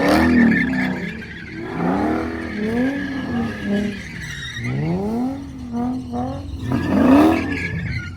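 A car doing burnouts or donuts in a burnout pit: the engine revs up and down in repeated swells while the rear tires squeal and spin, the loudest swell near the end.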